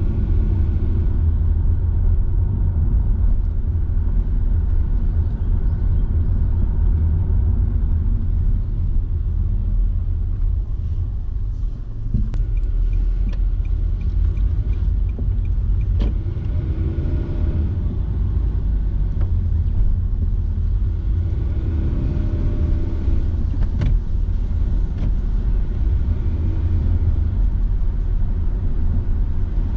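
Car driving along a road: a steady low rumble of tyres and engine, with a few sharp knocks or clicks about 12, 16 and 24 seconds in.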